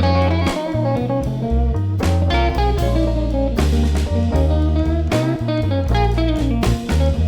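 Slow blues band intro: lead guitar playing over bass, keyboard and drum kit.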